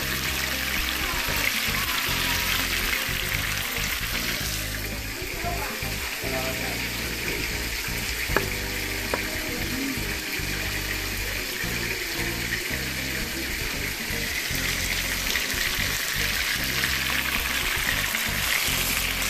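Chicken browning in hot oil in a pot, a steady sizzle, with two sharp clicks a little past the middle.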